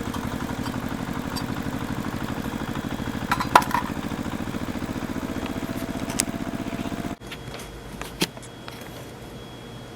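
Small engine running at a steady, rapid pulse, cutting off abruptly about seven seconds in. After it, a quieter background with a couple of sharp knocks.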